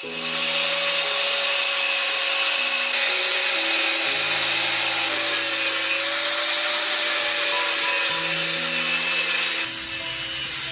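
A loud, steady rasping noise of a tool working a surface, like sawing or sanding, over background music; the rasping stops about a second before the end, leaving the music.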